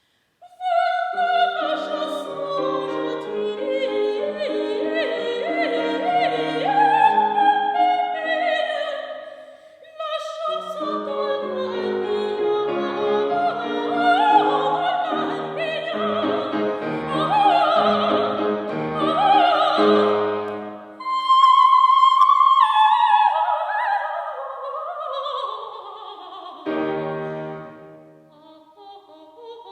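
Coloratura soprano singing an operatic aria with piano accompaniment. About two-thirds of the way through she holds a high note, and the line then steps down in pitch.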